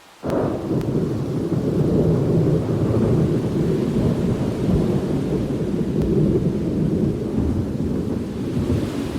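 Thunder: a sudden sharp crack about a quarter second in, then a long, loud, low rumble that rolls on without letting up.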